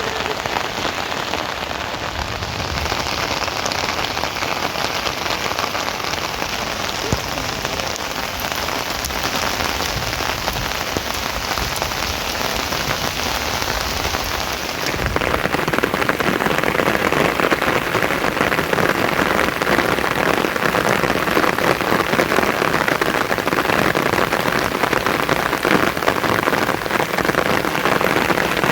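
Steady rain falling, getting louder about halfway through.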